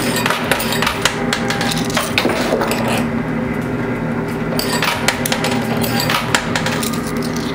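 Quarters dropping into a coin pusher machine and clinking against the coins on its playfield, in several clusters of metallic clicks over the steady hum of the arcade machines.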